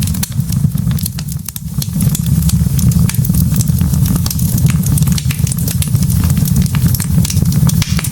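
Wood fire burning in a fireplace: a steady low rumble of the flames with many sharp, quick crackles and pops from the burning logs.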